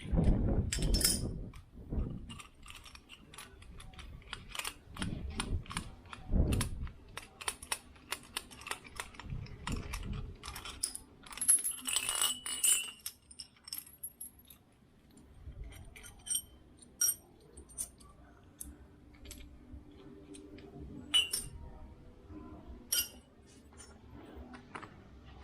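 Scattered metallic clicks, clinks and taps of hand tools and small motorcycle parts being handled and set down on a workbench. There are a few heavier knocks in the first couple of seconds and brief metallic ringing about halfway through.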